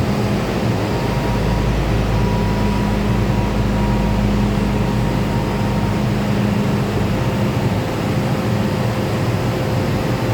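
MTR M-Train electric multiple unit standing with its onboard equipment running: a steady hum and whir holding several fixed tones, with no rise or fall of traction motors.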